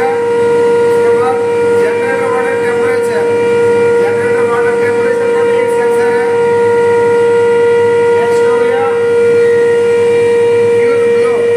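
Steady high-pitched whine of an induction melting furnace's power panel running: one held tone with overtones that does not change, with faint voices underneath.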